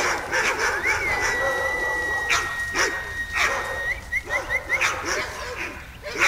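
Husky sled dogs barking and yelping repeatedly. A long steady high whistling tone starts about a second in, followed by a few quick rising chirps.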